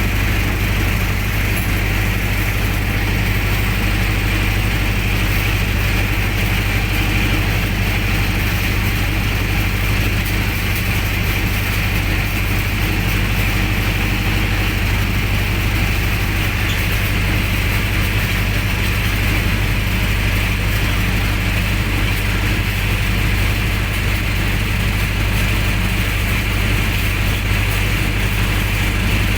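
Generator set's engine running steadily at a constant speed, with an even low hum.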